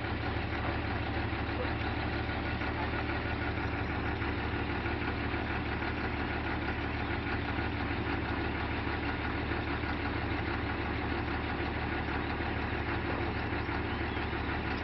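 Excavator's diesel engine running steadily at a low, even speed, with no revving or change in pitch.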